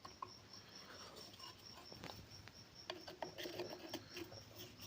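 Faint small clicks and scraping of a small screwdriver working the face-plate screw of a sewing machine, mostly in the second half, over a faint, high, evenly pulsing background tone.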